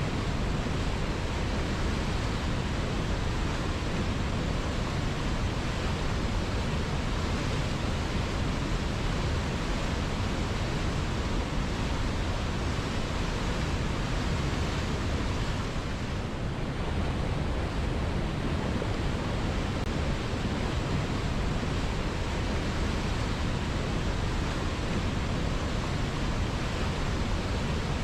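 River water flowing in a steady, even rush, dipping slightly about sixteen seconds in.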